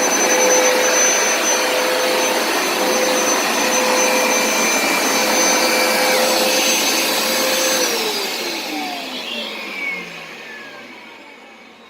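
Hoover Smartwash carpet cleaner's suction motor running with a steady whine, then switched off about eight seconds in, its pitch falling and fading as it spins down.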